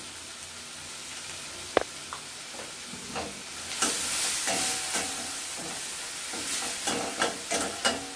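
Tomato and spice masala sizzling in oil in a stainless steel pan while a slotted metal spatula stirs and scrapes it. A sharp click comes about two seconds in, the sizzle grows louder from about four seconds in, and quick scraping strokes come near the end.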